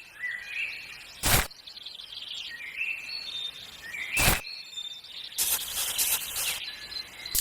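Small birds chirping in short, quick rising and falling notes over outdoor ambience, broken twice by a brief loud swish-like noise and later by a hiss of about a second.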